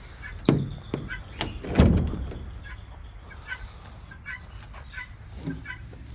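Several knocks and thuds from water bowls and a door being handled, the loudest about two seconds in, with softer ones near the end. Small birds peep faintly and repeatedly throughout.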